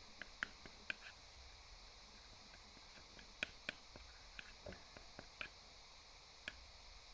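Scattered small, sharp sticky clicks and pops from slime being stirred and worked in a small pot, coming irregularly against near silence.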